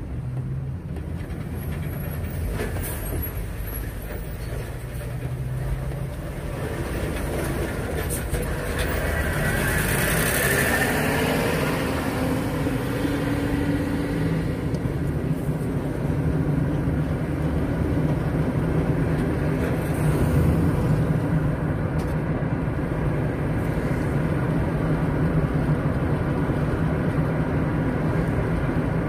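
A moving car's steady engine and road noise, a continuous low rumble with a brief swell about ten seconds in.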